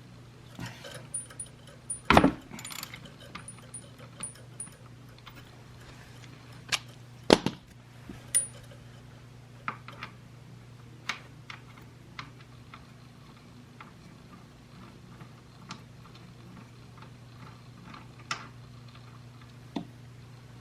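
Scattered metallic clinks and knocks of hand tools being handled during a motorcycle oil drain, with two louder knocks about two and seven seconds in, over a steady low hum.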